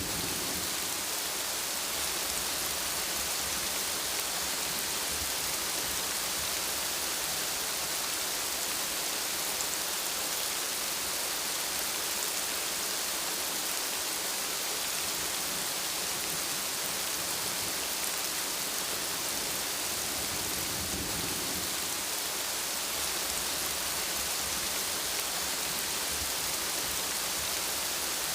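Steady heavy rainfall, an even hiss of rain on surfaces, with a brief low rumble of thunder swelling and fading about three-quarters of the way through.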